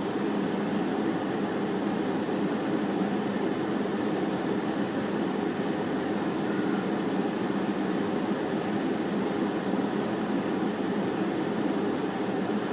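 Steady low hum of an idling vehicle, heard from inside a parked car's cabin with the window down; it holds level throughout.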